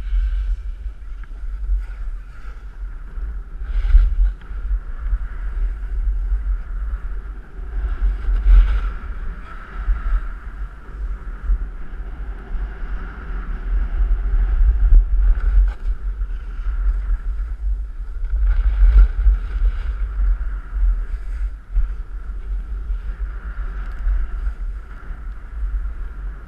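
Wind buffeting the microphone of a camera carried down a snowy ski slope at speed, with the hiss and scrape of edges on snow swelling through the turns several times.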